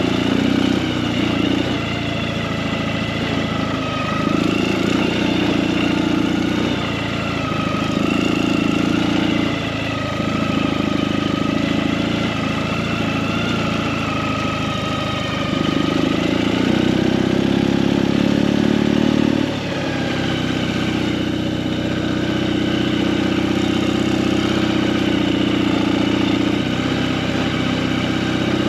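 Motorcycle engine running while riding, with louder stretches of its low note coming and going every couple of seconds.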